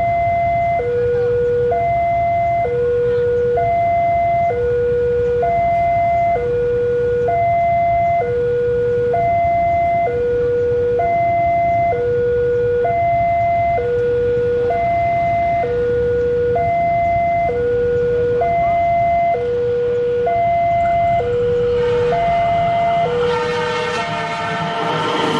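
Railway level crossing warning alarm sounding, an electronic bell alternating steadily between a lower and a higher tone about once a second, over a low rumble of traffic. A train comes in about three seconds before the end, its wheels rattling and squealing on the rails.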